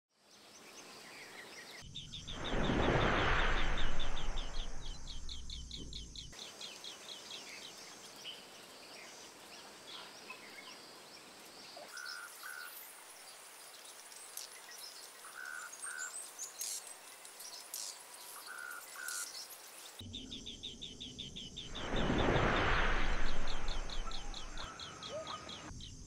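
Birds chirping in short calls, some in quick pairs. Twice, near the start and near the end, a loud whooshing swell rises and fades, with a fast run of ticks alongside it.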